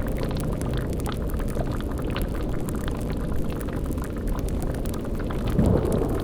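Layered spooky ambience of a cauldron boiling over a fire: a steady low rumbling bubble with scattered crackles, and a louder low gurgling swell near the end.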